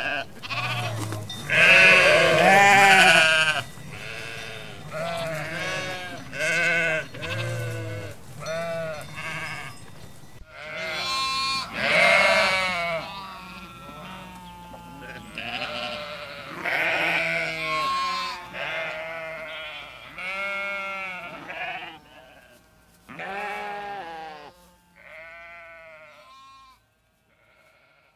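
Sheep bleating: many calls one after another, some higher and some lower, each with a wavering quaver. The calls grow sparser and quieter in the last few seconds and fade out just before the end.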